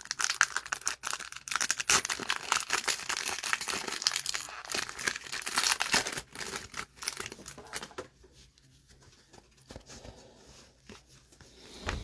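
A foil trading-card pack wrapper being torn open and crinkled, a dense run of crackling and crisp tearing for about seven seconds. It then goes quieter, with only a few light clicks.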